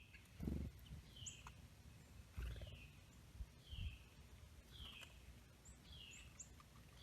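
Small songbirds calling: a short falling call repeated about once a second, with a few thin, very high chirps between. Low thuds come about half a second in, and twice more around two and a half and four seconds in.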